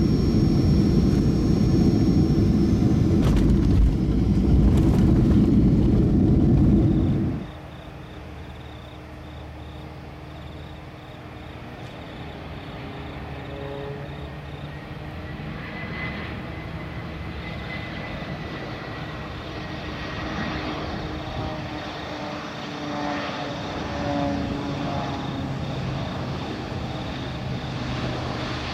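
Jet aircraft engines of a Boeing C-17A Globemaster III, Pratt & Whitney F117 turbofans. A loud low rumble for about the first seven seconds cuts off suddenly, then the engines run more quietly and steadily with whining tones that come and go.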